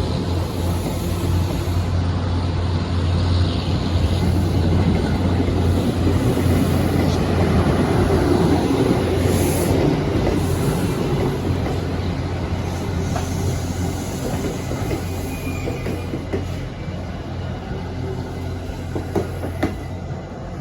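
A train rolling past: a steady low hum under the rumble of wheels on rail, growing to its loudest about eight to ten seconds in and then easing off.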